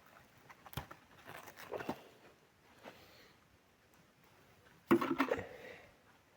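Rustling and a few light clicks of cucumber vines and leaves being handled while cucumbers are picked, with a louder, brief rustle about five seconds in.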